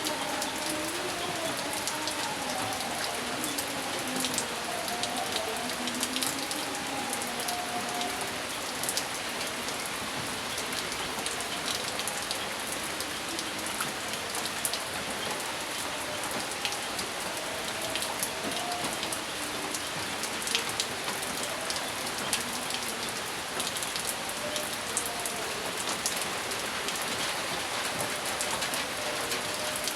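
Steady rain falling, with many separate drops striking close by over an even wash of rain noise.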